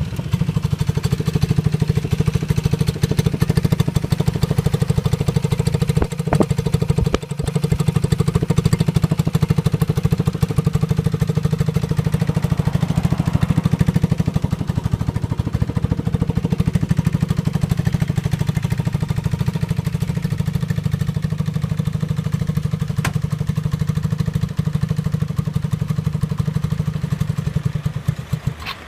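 Yamaha Maxster scooter's single-cylinder four-stroke engine idling steadily, then cutting out near the end.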